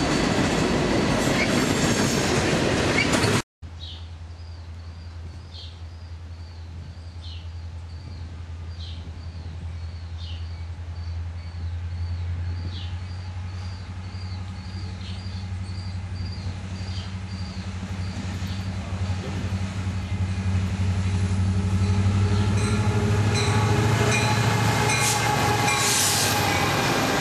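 Freight train rolling past, then, after an abrupt cut, a diesel locomotive's steady low engine drone that grows louder as the train approaches. Through the middle there is a high squeal repeated about once a second.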